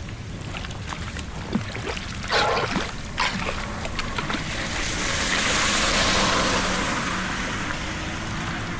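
Floodwater running and splashing, with a few sharp splashes in the first few seconds, then a rushing swell of water that peaks midway and eases off.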